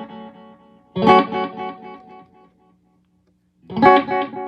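Electric guitar chords strummed twice through a Visual Sound Dual Tap Delay pedal, each chord followed by a string of quick echoes fading away. The delay's tone knob is all the way up, so the repeats stay bright.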